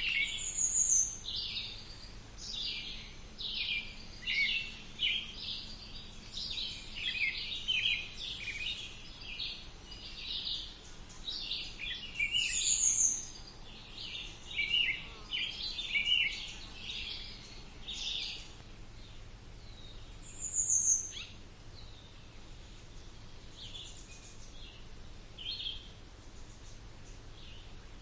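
Several songbirds calling and singing in a wood: many quick chirps and twitters, with a short high falling note now and then over them. The calls thin out near the end.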